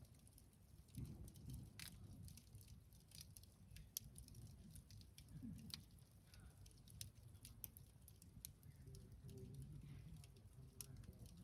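Faint crackling of a wood campfire: irregular small pops and snaps over a low rumble.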